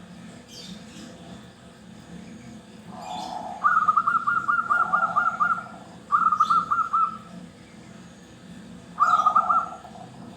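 Zebra dove (perkutut) singing in runs of quick staccato coos: a long run a few seconds in, then two shorter runs.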